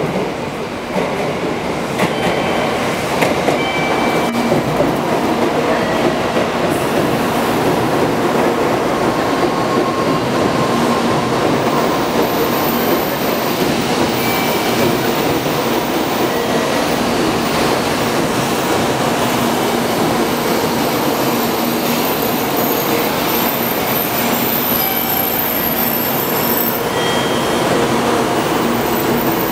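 Tōkaidō Shinkansen bullet train pulling into the platform and slowing: a steady loud rush of the cars passing, building over the first couple of seconds as the train arrives. A thin, high-pitched wheel and brake squeal joins in about twelve seconds in.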